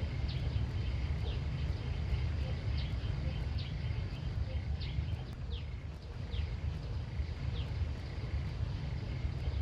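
Outdoor rural ambience: a steady low rumble under short, high, downward-sliding chirps that repeat roughly once a second, with a faint steady high buzz behind them.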